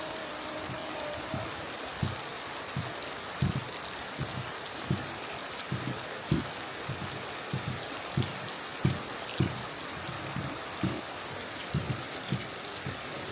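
Heavy rain falling steadily, with large drops landing in irregular low thuds about one or two times a second.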